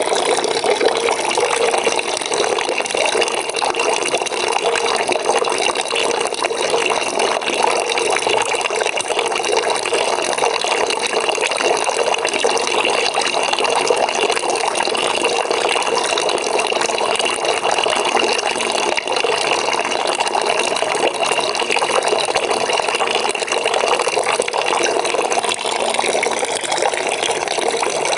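Stream of water pouring steadily into a bucket as it fills, a continuous rushing splash.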